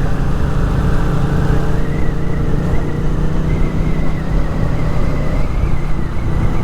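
Motorcycle riding at a steady cruising speed: the 2021 Honda Rebel 500's parallel-twin engine runs evenly under a rush of wind and road noise.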